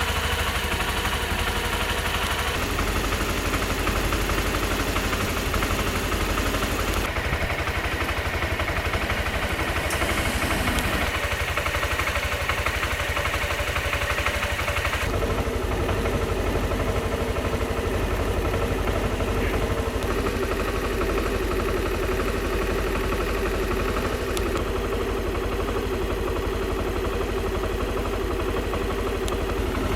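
Suzuki Skywave 250 scooter's single-cylinder four-stroke engine idling steadily through its exhaust. The sound changes character abruptly a few times, at about 2.5, 7 and 15 seconds in.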